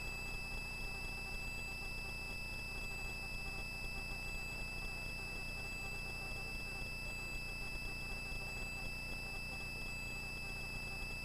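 Faint steady electronic whine from the helicopter's intercom audio feed while no one is talking: two thin high tones over a low hum, with no voice on the line.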